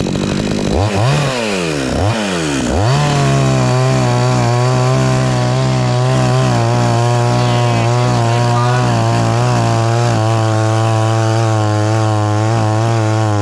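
Chainsaw engine revved up and down three times, then held steady at full throttle while cutting into a tree trunk to fell it.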